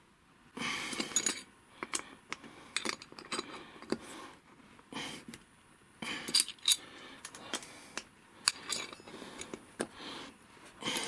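Hand work on a wheelchair's rear wheel: scattered sharp metallic clicks and clinks of a wrench and metal parts being handled and fitted, with a few short rustling scrapes.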